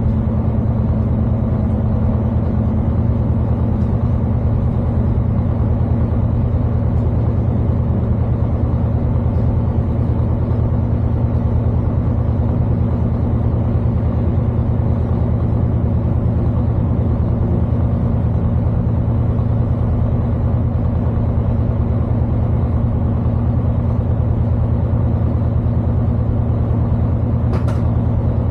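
A Class 221 Super Voyager diesel train's engines running with a steady low hum, and a brief hiss near the end.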